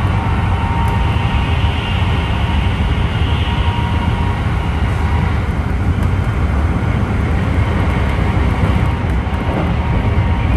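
Keikyu 1000-series train's Mitsubishi traction motors under car DeHa 1097 running, heard inside the car as a steady, heavy low rumble with a faint steady whine above it. The motor sound is abnormal for this type, which the owner puts down to motor deterioration or a louder replacement motor.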